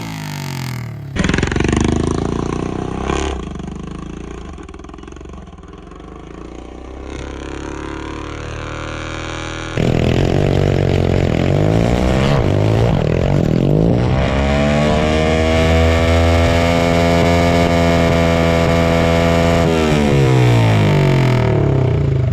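Dirt bike engine running through its revs. Its pitch drops at the start, then after a break it climbs and holds high for several seconds before falling away again near the end.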